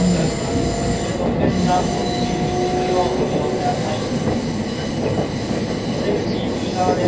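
Meitetsu 3500 series electric train running: a steady rumble from the wheels and running gear, with a faint squeal at a steady pitch now and then.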